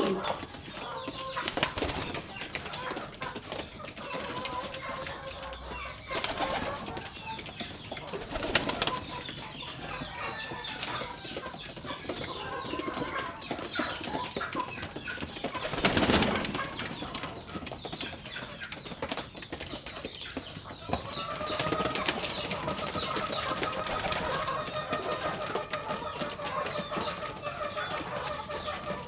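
Domestic pigeons cooing, with several short bursts of wing flapping; the loudest comes a little past halfway. A steadier pitched sound sets in about two-thirds of the way through.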